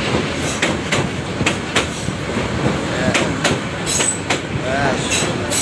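Bangladesh Railway passenger train passing at speed, its wheels clattering over the rail joints in a quick, uneven run of sharp clicks over a steady rumble.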